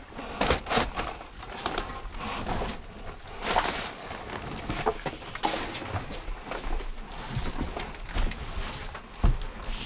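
Irregular knocks, scrapes and shuffling footsteps on debris and wooden surfaces, with one sharp thump near the end.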